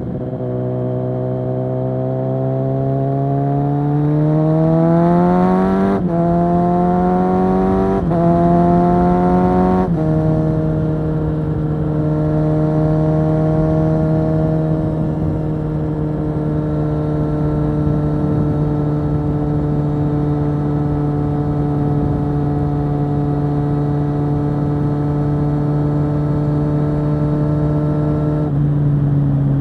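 2022 Kawasaki Z900 SE's inline-four through a Zard full-system exhaust, heard onboard: it revs up through the gears, with quick upshifts about six, eight and ten seconds in, then runs at steady cruising revs. The revs dip slightly near the end.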